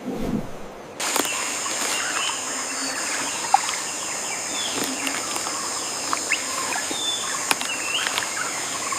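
Rainforest ambience: a steady high-pitched insect drone that starts about a second in, with scattered short bird chirps and a few sharp clicks over it.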